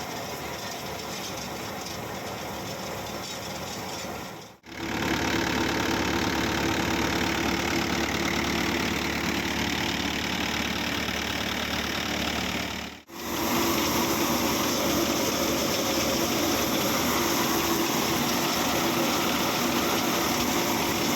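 Mahindra mini tractor's diesel engine running steadily while driving a thresher, a continuous mechanical drone with a steady low hum. It drops out briefly and abruptly twice, about four and a half and thirteen seconds in, and comes back louder after the first break.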